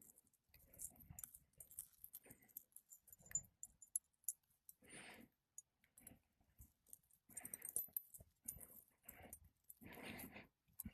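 Near silence, with a few faint scrapes and knocks, most of them about halfway through and near the end.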